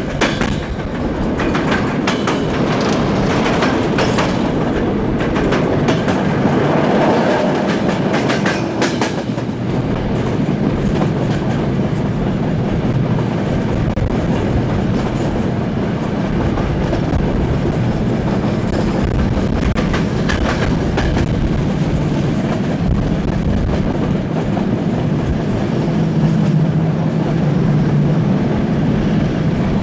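Passenger train running on the line, heard from aboard: a steady rumble with clusters of wheel clicks over rail joints every few seconds, the clickety-clack of a moving railway carriage.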